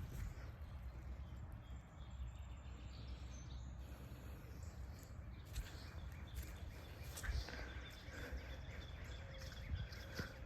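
Outdoor ambience: a steady low rumble, like wind on the microphone, with a few short scattered crunches and faint bird chirps.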